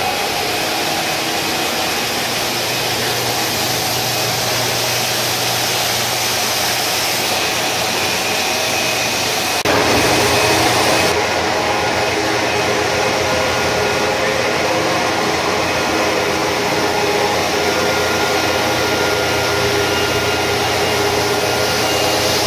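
A large automatic carpet washing machine running, giving a steady mechanical whir with a hum of several steady tones. Its sound shifts abruptly about ten seconds in, then stays steady again.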